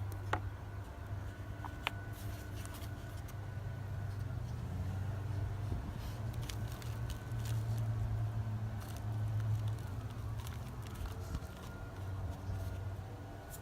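Small scattered clicks and rustles of potting soil and plastic seedling module trays being handled, over a steady low background hum.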